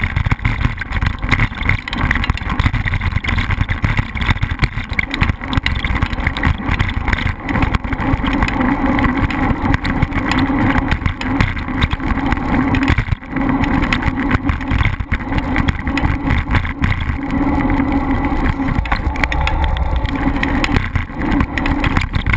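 An engine running loudly and steadily.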